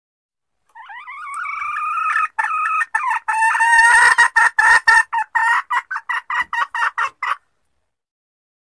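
Junglefowl hen calling, the call used as a lure for wild cocks: one drawn-out rising note, then a run of quick repeated clucks, about four a second, that stops abruptly.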